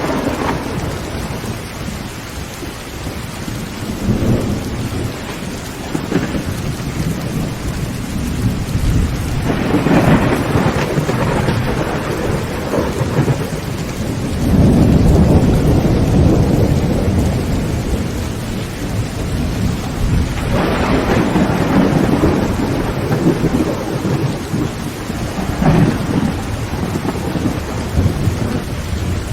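Heavy rain on a tin roof, a steady hiss, under several long rolls of thunder that swell and fade, the loudest about halfway through.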